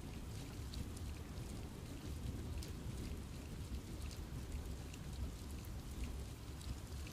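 Steady rain falling in a forest, with many separate drops pattering on leaves over a soft low rumble.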